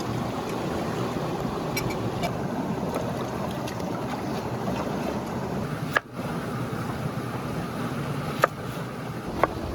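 Food cooking over an open fire: a steady sizzling, bubbling rush with a few sharp pops in the second half, briefly cut off about six seconds in.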